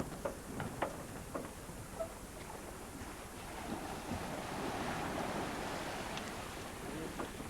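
Sea water rushing along a sailing yacht's hull with wind on the microphone; the rush swells for a couple of seconds midway. A few short knocks are heard near the start and near the end.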